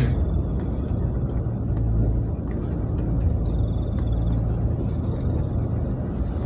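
Ambulance cabin noise while driving: a steady low rumble of engine and road.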